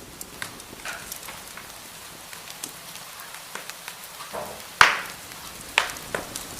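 Wood fire crackling in a fireplace: irregular sharp pops and snaps over a steady soft hiss, with one loud pop a little before five seconds in and a few more soon after.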